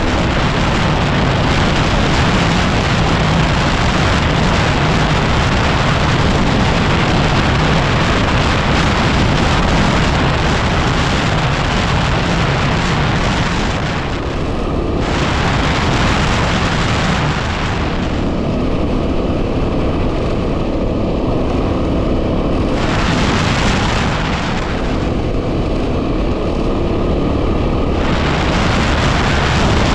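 Heavy wind buffeting on the microphone over a Yamaha WR250R's single-cylinder engine running under way on a dirt track. The upper hiss of the wind drops out for a few seconds at a time in the second half, leaving the engine and the lower rumble.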